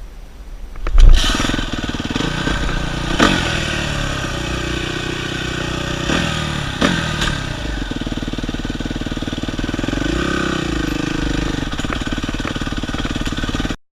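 Dirt bike engine starting about a second in, then running steadily at low revs with a few short blips of throttle. It cuts off suddenly near the end.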